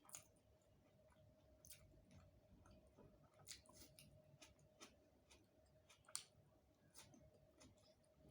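Faint close-up eating sounds: scattered soft clicks and smacks of chewing a mouthful of rice and curry, over a faint steady hum.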